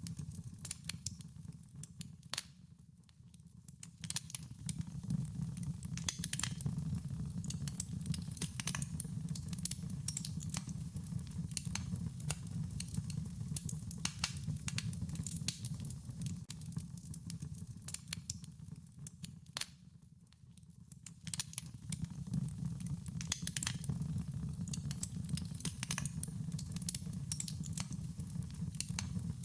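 Wood fire crackling, with frequent sharp pops and snaps over a steady low rumble that dips briefly twice.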